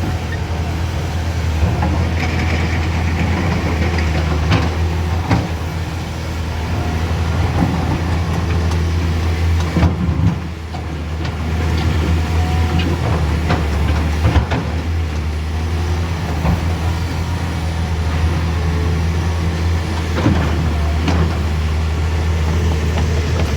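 A large vehicle engine running steadily with a low hum, with scattered knocks and rattles, one of the sharper ones about ten seconds in.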